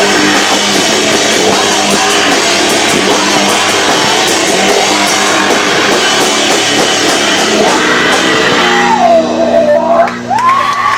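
Live rock band playing loud with guitars and drum kit, distorted by an overloaded camcorder microphone. About nine seconds in, the full band drops away, leaving held notes and a wavering high tone.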